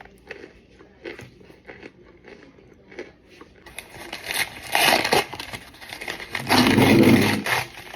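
Crunching and crumbling of steamed-and-microwaved cornstarch, close to the microphone: scattered small crackles at first, then loud, dense crunching from about halfway through.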